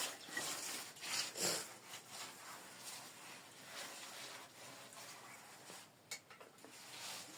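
Wet mud plaster being smeared over an earthen floor: soft, irregular rubbing swishes, a little louder in the first second and a half and fainter after.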